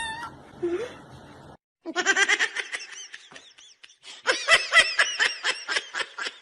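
Laughter in rapid pitched bursts, several a second, starting about two seconds in and growing louder and denser from about four seconds.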